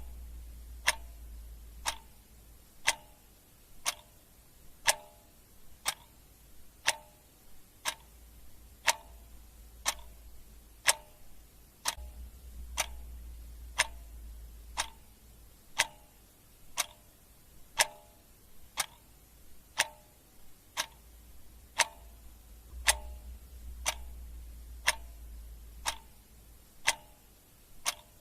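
Clock ticking steadily at about one tick per second, in an alternating tick-tock. A faint low hum comes and goes underneath every ten seconds or so.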